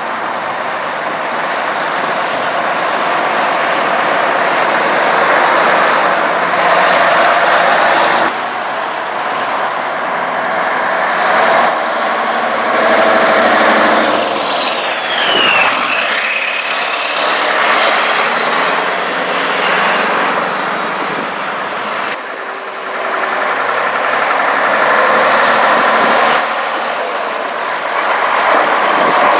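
Vintage trucks driving past one after another, engines running and tyres rolling on the road. A short falling whistle-like tone sounds about halfway through.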